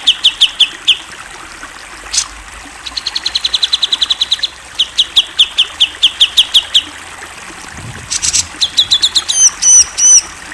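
Cucak jenggot bulbul singing: several rapid runs of short, clear, falling notes, about five a second, with a few higher looping chirps near the end.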